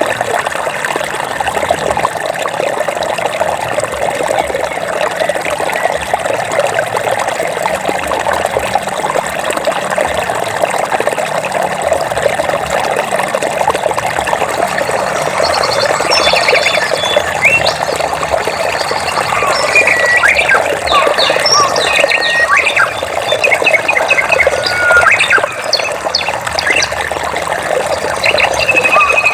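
Steady flowing water, like a stream or small waterfall, with birds chirping and giving short whistled notes from about halfway through.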